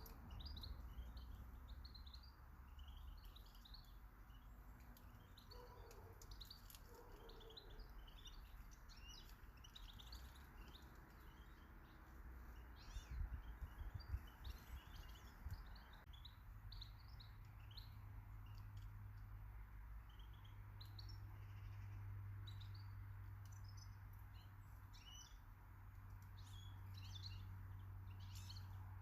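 Faint chirping and twittering of small garden birds, many short calls throughout. A few low thuds come around the middle, and a low steady hum sets in about halfway through.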